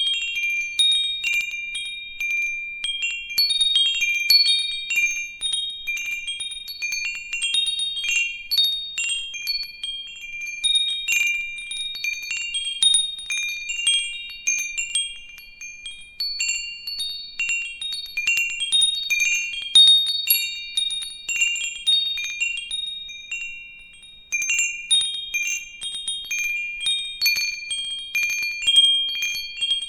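Metal wind chimes ringing continuously, struck at random by the wind: a small set of high, clear tones overlapping and sustaining, with a brief lull about three quarters of the way through.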